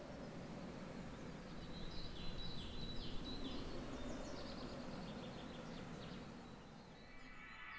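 Faint outdoor ambience: a low steady rumble with a songbird singing a quick series of short down-slurred chirps in the middle. Soft ambient music fades in near the end.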